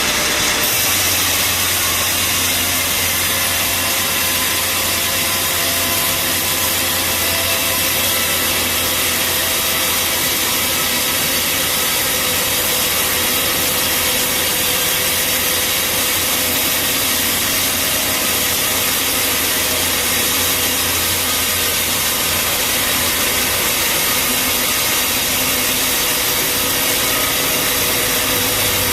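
Band sawmill running steadily with its blade cutting through a log. A low hum comes in about a second in and drops away near the end.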